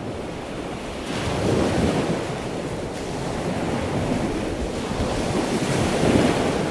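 Rushing water noise, an even hiss that swells about a second in and again near the end.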